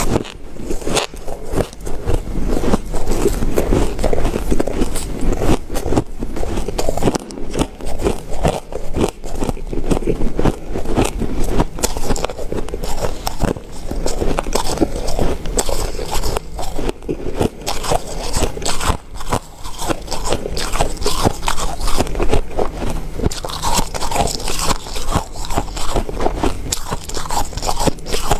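A person biting and chewing ice: a dense, continuous run of crisp crunches and crackles, one on top of the next.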